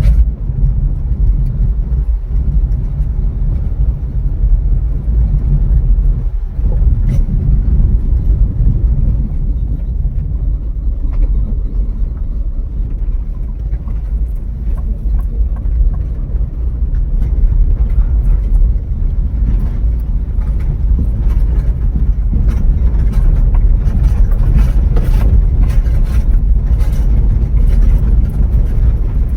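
Steady low rumble of a car on the move, with scattered light knocks and rattles in the second half.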